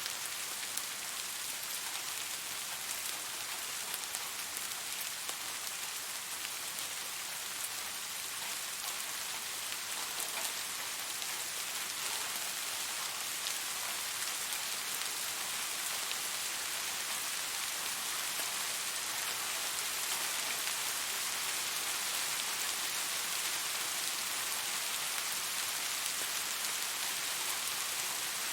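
Steady rain falling, an even hiss of drops on a surface with faint fine patter.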